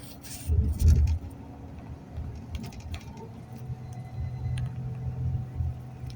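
Inside a moving bus: a steady low engine hum with small rattles and clicks from the cabin, and a louder rattling jolt about a second in.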